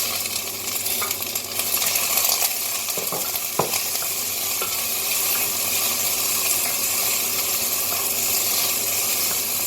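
Onions and peppers sizzling steadily in hot oil in a pan as they are stir-fried, with a couple of clinks of the stirring utensil against the pan a few seconds in.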